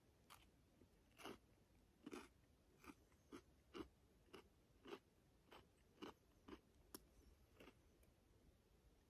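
A person chewing food close to the microphone: a faint, regular crunch a little under a second apart, stopping near the end.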